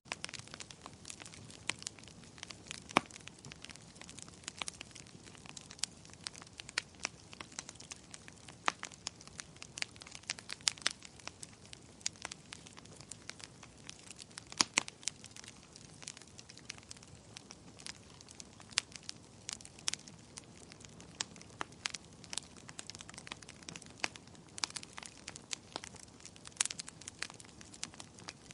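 Wood fire crackling in a fireplace, with irregular sharp pops and snaps over a faint steady hiss.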